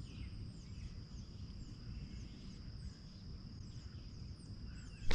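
Birds chirping in the background, many short falling chirps one after another, over a steady high-pitched tone and a low rumble. A single sharp knock comes right at the end.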